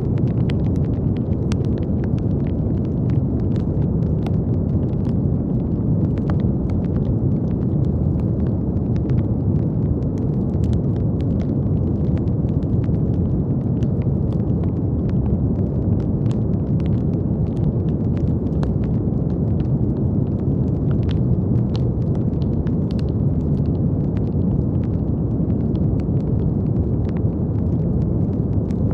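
Brown noise: a steady, deep, even rushing noise with its weight in the low end, holding the same level throughout. Faint, irregular little clicks are scattered over it.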